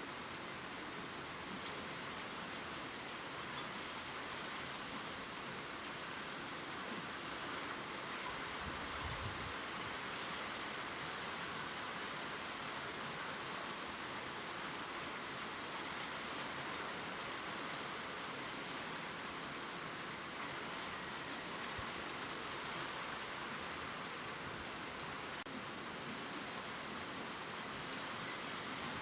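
Steady gentle rain falling on leaves, a constant soft hiss with fine scattered ticks of drops striking the foliage.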